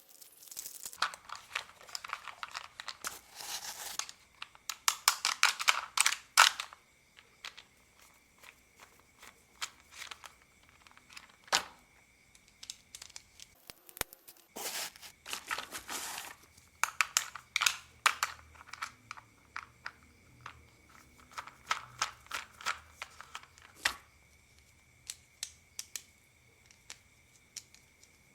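Plastic toy cars being handled, unscrewed and taken apart: irregular clicks and taps of hard plastic parts and screws, with bursts of rattling and crinkly plastic rustling.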